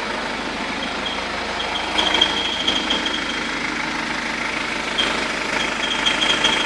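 BMW 120d's four-cylinder diesel engine idling, with an irregular high chirping that comes in about two seconds in and again near the end. This is the abnormal engine sound being checked, which the owner wonders may be a cricket.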